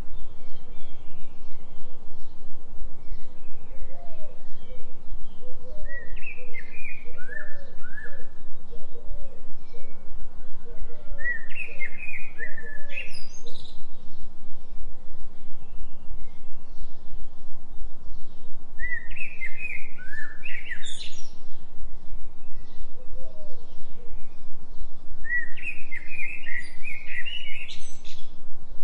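Songbird song: four phrases of quick high chirps that sweep upward, with a softer run of short low repeated notes in the first half. Beneath them runs a steady low drone, the binaural-beat tone.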